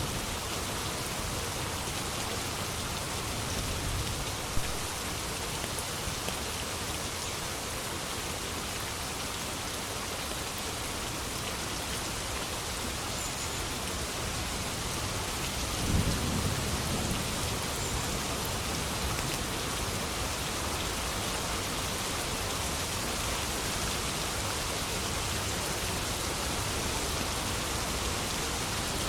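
Steady heavy rain falling, with one low rumble of thunder about halfway through.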